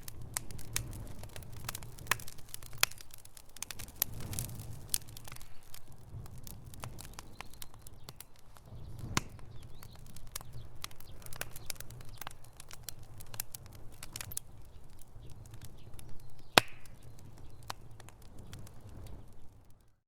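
Wood fire in a fireplace crackling: irregular sharp pops and snaps over a low, steady rumble of flames, with one louder pop about three-quarters of the way through.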